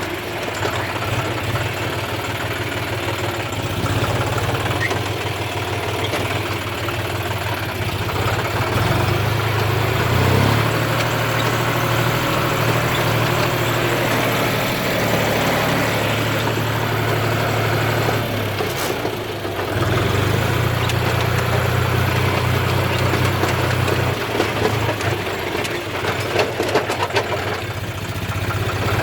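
John Deere 5039D tractor's three-cylinder diesel engine running steadily under way, its note breaking briefly twice, about ten and nineteen seconds in.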